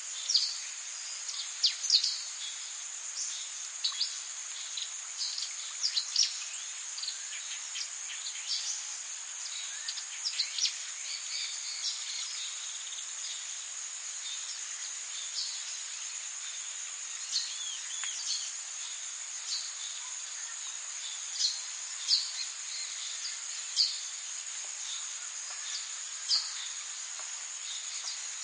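Rainforest ambience: a steady high insect drone over an even hiss, with many short high chirps scattered through, thickest in the first dozen seconds and sparser after.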